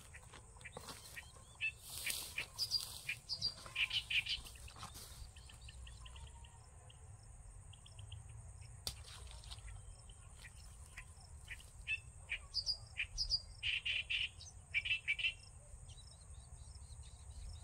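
Birds chirping and calling in quick bursts, one spell in the first few seconds and another about twelve seconds in, with a short even trill between them. A faint steady high whine runs underneath.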